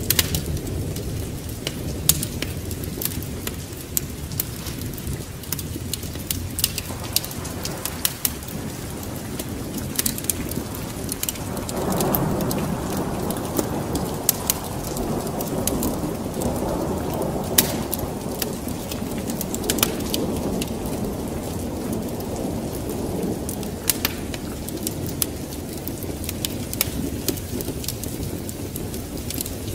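Wood fire crackling and popping over steady rain, with a long roll of thunder that swells about twelve seconds in and fades away over several seconds.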